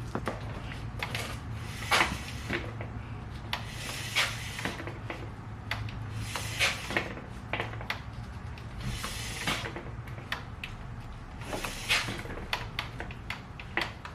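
Irregular clicks, knocks and short scraping sounds of tools and parts being handled during motorcycle brake work, over a steady low hum.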